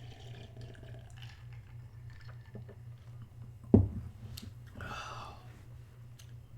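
A person eating a chicken burger and fries: quiet chewing and small mouth clicks over a steady low hum. Just past halfway comes one sharp, loud thud, like something knocked or set down hard, then a brief rustling sound about a second later.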